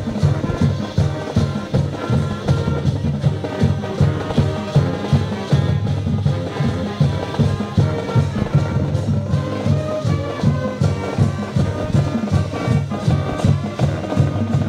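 High school band playing brass tunes over a steady drumbeat.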